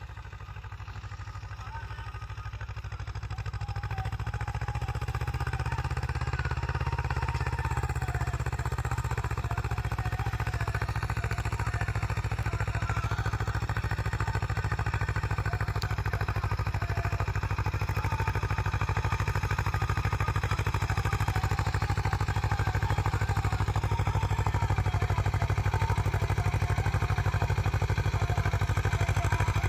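Swaraj 724 XM tractor's two-cylinder diesel engine working steadily under load while pulling a single harrow, growing louder over the first few seconds and then holding steady.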